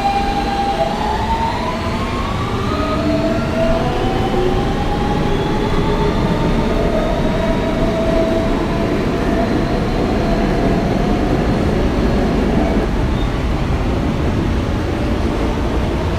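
Kawasaki R160B subway car with Siemens propulsion pulling out and accelerating, its traction motors giving several whining tones that rise in pitch. As the whine fades, the car's steady running rumble continues.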